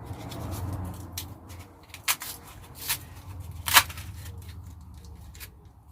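Rustling and handling of an oil filter kit and its small parts, with a few sharp clicks; the loudest click comes near the end.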